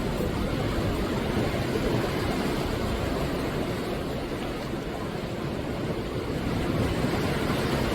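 Sea surf breaking and washing on the shore: a steady, full rush of wave noise that eases slightly in the middle and swells again toward the end.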